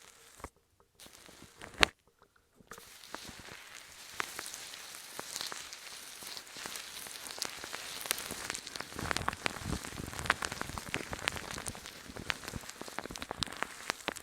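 Close-miked ASMR trigger sounds: a few separate clicks, then from about three seconds in a dense, continuous run of small crackles and clicks.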